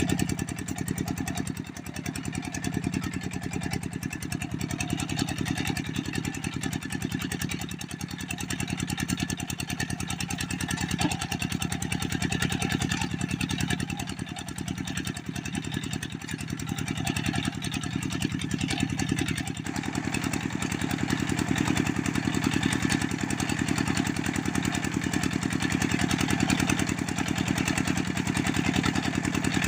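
Engine powering a clay brick press machine, running steadily with a rapid even pulse, a little louder in the second half.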